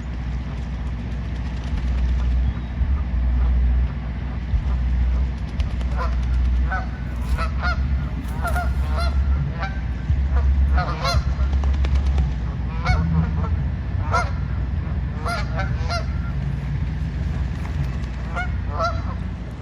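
Birds calling over and over: many short calls in quick succession from about six seconds in, over a steady low rumble.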